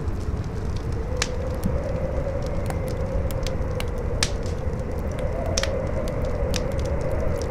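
Campfire crackling with irregular sharp pops, over a low rumble of strong wind and a howling wind tone that slowly rises and falls.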